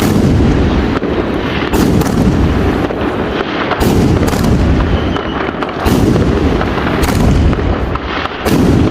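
New Year fireworks and firecrackers going off in a dense barrage: a continuous rolling rumble of booms with sharper bangs cracking through it every second or two.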